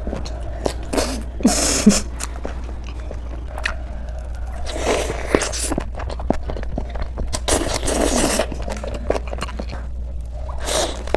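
Close-miked eating: bites into and chewing of a wrap stuffed with fresh vegetables, with four bursts of crunching about three seconds apart and wet mouth clicks between them.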